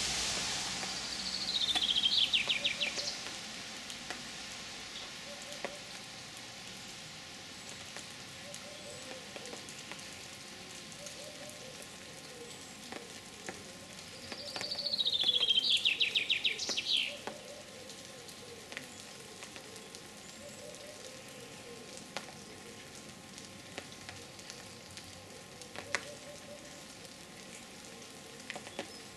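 A songbird sings the same phrase twice, about fourteen seconds apart: a fast trill that falls in pitch and ends in a quick rising flourish. Underneath runs a steady faint crackling hiss with scattered small clicks.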